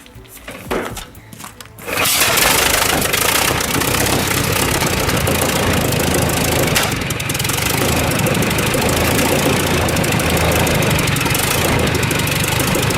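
A large vintage engine catching about two seconds in, after quieter rapid clicking, then running loud and steady with a low pulsing beat.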